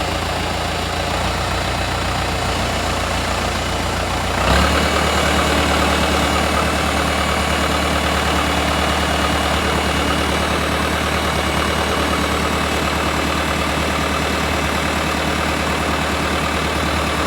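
Case 430 tractor engine running steadily at idle, then stepping up to a higher, louder steady speed about four and a half seconds in.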